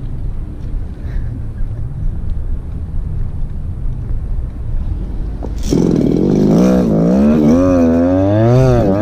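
Go-Ped scooter's small 26cc two-stroke engine (a Chongyang CY26RC from an RC car) running low with a rough rumble, then opened up a little over halfway through. Its pitch then rises and falls several times with the throttle before it climbs steadily.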